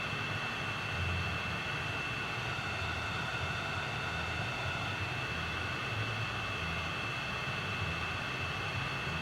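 Steady machine noise: an even hiss with a constant high whine over a fluttering low rumble, like a small electric blower or motor running without a break.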